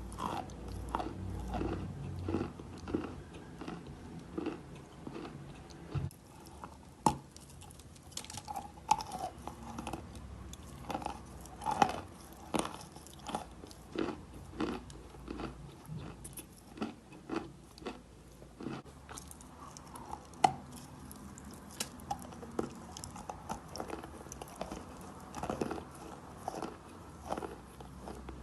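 Close-miked chalk being bitten and chewed: irregular crunches and crumbly chewing, with a few sharper, louder bites about 7, 12 and 20 seconds in.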